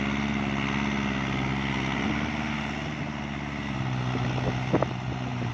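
Kubota tractor's diesel engine running steadily under load in deep wet mud, its pitch dropping slightly about two seconds in. The tractor is on the verge of bogging down. A short knock sounds near the end.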